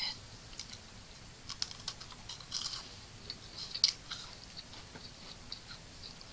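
Close-up chewing of a crunchy snack, with scattered sharp crunches and mouth clicks; the loudest crunch comes about four seconds in.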